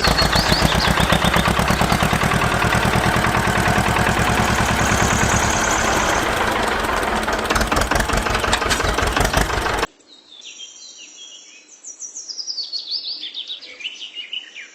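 A small engine or motor running with a rapid, even pulse, which cuts off suddenly about ten seconds in. Birds chirp after it.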